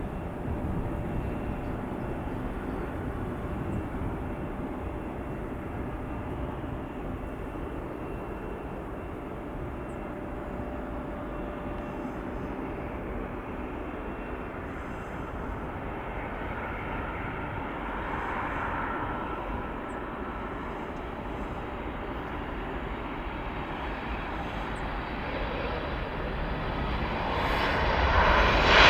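Airliner engine noise, a steady rumble that grows much louder over the last few seconds and peaks at the end.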